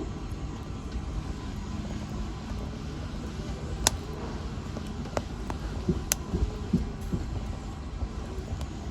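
Wood fire burning in a fireplace: a steady low rumble with a few sharp crackles and pops, the loudest about four seconds in and two more a little after five and six seconds.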